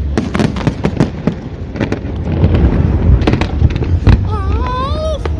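Fireworks going off: a dense run of sharp bangs and crackles over deep booming, heaviest in the second half.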